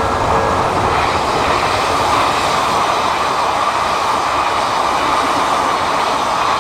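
Odakyu Odawara Line electric train passing close by at speed: a loud, steady rush of wheels on rail.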